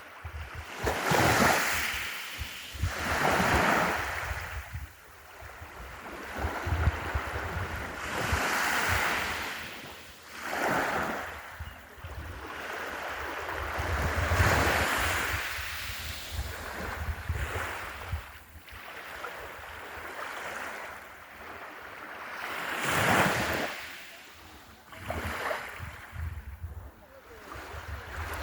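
Sea waves breaking on a beach, the wash of surf swelling and fading every few seconds, with wind buffeting the microphone as a low rumble.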